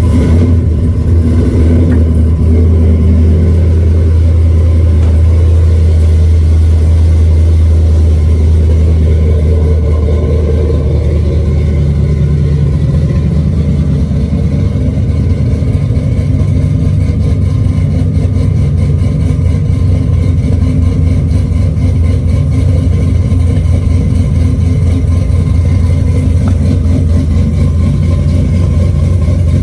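Pickup truck engine idling loudly and steadily just after a cold start, having sat unused for a week, with a strong deep exhaust hum.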